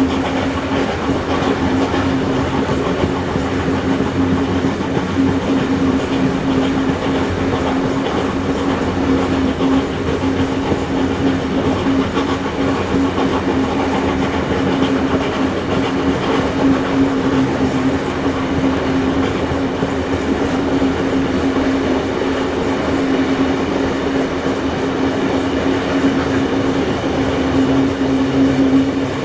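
Heritage train running along the line, carriage wheels rolling over the rails with a continuous rumble and a steady hum.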